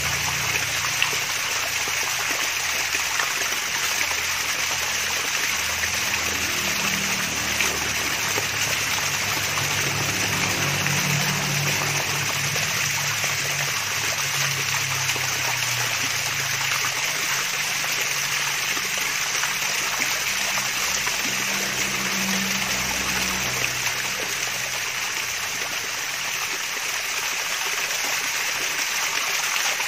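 Mini waterfall with water splashing and trickling in a steady babble.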